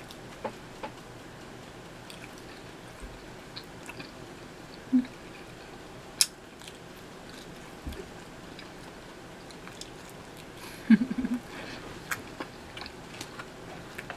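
A person chewing a mouthful of pizza crust close to the microphone. Soft mouth sounds carry scattered small crunchy clicks and a few louder sudden sounds, the loudest a quick cluster about eleven seconds in.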